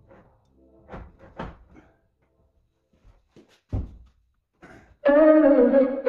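A tall wooden plank door being swung open on its hinges: a few soft knocks and one sharper thunk about halfway through. About five seconds in, loud music with sustained brass-like tones starts.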